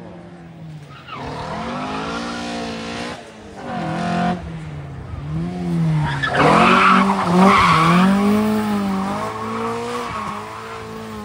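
Rally car engine revving up and down repeatedly while the car spins, with tyres squealing and skidding; loudest about six to eight seconds in.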